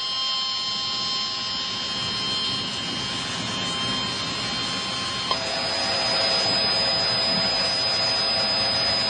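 Heavy rain falling steadily, with a few faint steady electronic tones over it. About five seconds in, a click is heard, the tones change and the rain gets a little louder.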